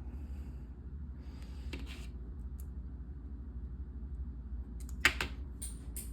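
Plastic LEGO pieces being handled and pressed together: a short rustle of small clicks about a second in, then a few sharp clicks near the end, over a steady low hum.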